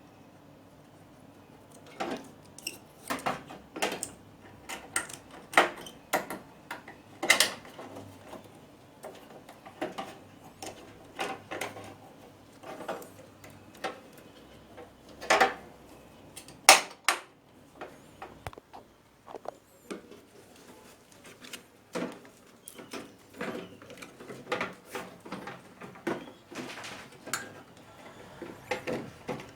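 Irregular clicks, clinks and knocks of tools and metal parts being handled while a microwave oven is worked on, starting about two seconds in.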